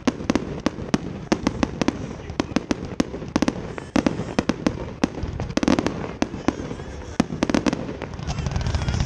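Fireworks going off in quick succession: a rapid, irregular string of sharp cracks and bangs, several a second, with a couple of heavier bursts in the second half.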